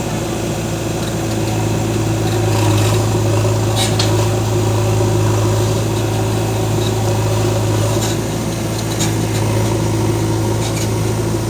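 Heavy diesel engine running steadily at an even speed, with a few faint knocks.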